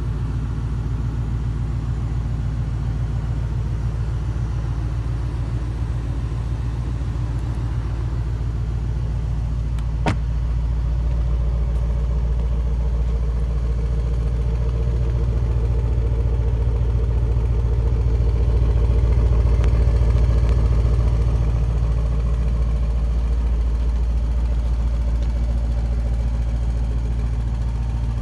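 Range Rover Sport SVR's 5.0-litre supercharged V8 idling steadily, growing a little louder for a few seconds past the middle. A single sharp knock about ten seconds in.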